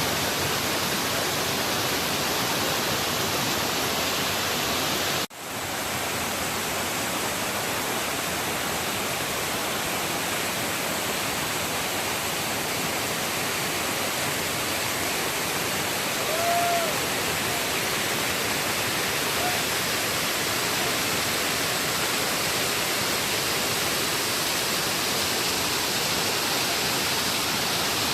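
Steady rushing and splashing of a small mountain waterfall, with a momentary dropout about five seconds in.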